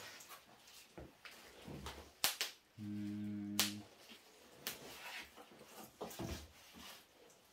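Scattered clicks and knocks of small objects being handled, with a steady low electric buzz lasting about a second near the middle.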